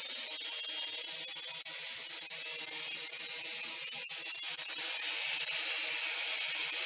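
Syma X5C (Skydrone Plus) quadcopter's small electric motors and propellers running with a steady high-pitched whine, shown to demonstrate a faulty motor. There is a single click about four seconds in.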